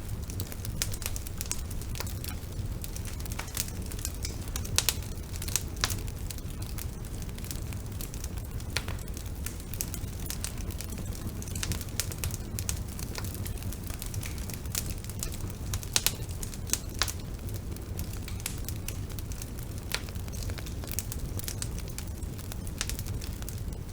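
Bonfire burning with a steady low rumble and frequent irregular crackles, with a few louder pops.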